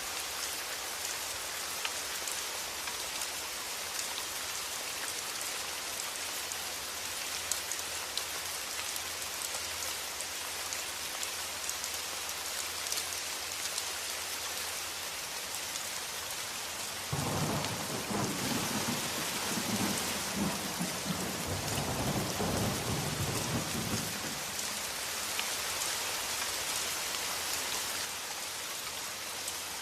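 Steady rain falling, with a roll of thunder rumbling low for several seconds a little past the middle.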